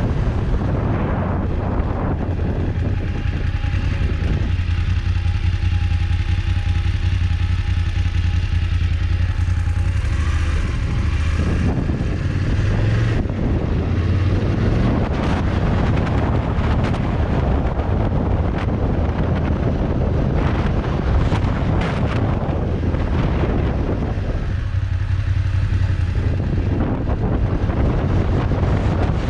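Motorcycle engine running while riding, with wind noise buffeting the microphone. A steady engine note holds for several seconds early on and again briefly near the end, between stretches where wind noise covers it.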